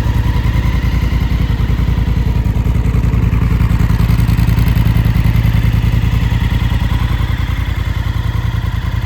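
Honda CRF1000 Africa Twin's 998 cc parallel-twin engine idling through a full SC Project aftermarket exhaust, with a steady pulsing beat. The revs pick up slightly in the middle and settle back.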